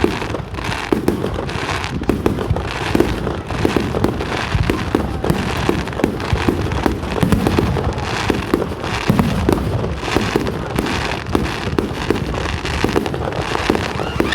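Fireworks display finale: a dense, continuous barrage of bangs and crackling reports, several a second, with no let-up.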